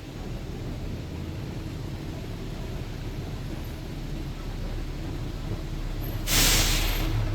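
Steady low rumble of the double-decker bus and traffic on rain-wet streets. About six seconds in, a loud hiss lasts about a second and fades.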